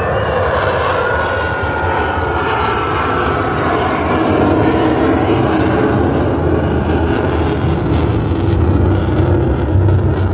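Military display aircraft flying overhead: a loud, steady engine roar that swells slightly partway through, with a thin whistle that falls a little in pitch about a second in.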